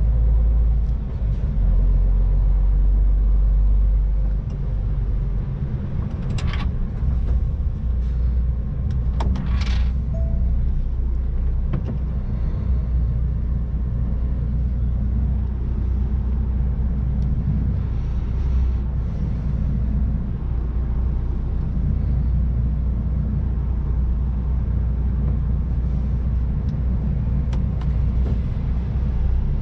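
MAN TGX 18.510 truck's six-cylinder diesel engine and road rumble, a steady low drone while driving. Two brief sharp noises cut in about six and nine seconds in.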